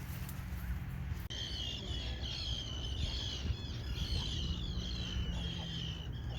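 Birds chirping: repeated short, high calls that start abruptly about a second in, over a steady low rumble.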